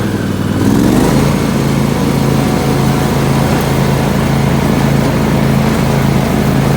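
John Deere LX277 lawn tractor's engine rising in pitch about a second in as it throttles up, then running steadily while mowing with its Freedom 42 mulching deck.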